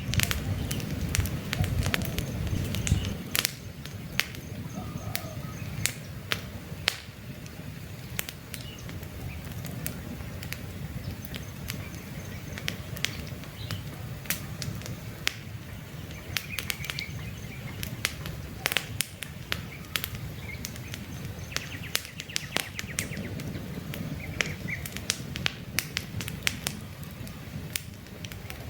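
Wood campfire crackling, with frequent sharp pops over a low rumble of the flames; the rumble is stronger in the first few seconds and again near the end. Occasional short bird chirps sound in the background.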